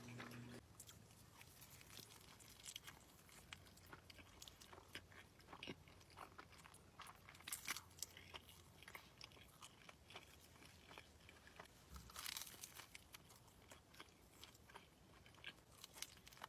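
Faint close-up chewing and crunching of food, a steady scatter of small crisp crackles with a few louder crunches around the middle.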